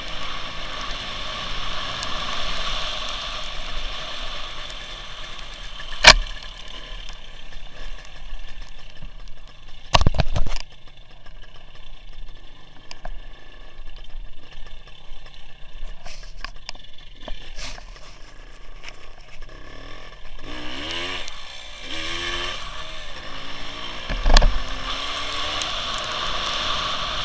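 WSK 175 motorcycle's single-cylinder two-stroke engine running under way, heard from an onboard camera, with the pitch rising and falling in the last few seconds as the revs change. Sharp knocks stand out about 6 s, 10 s and 24 s in, and the engine is quieter for several seconds in the middle.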